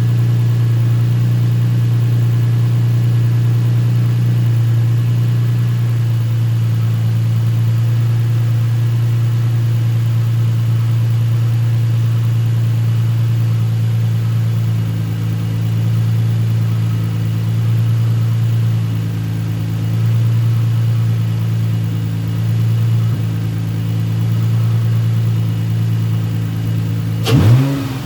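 Nissan 350Z V6 engine idling steadily while being checked for a misfire after its ignition coils were swapped between cylinders. Near the end it is revved once, rising sharply and falling back.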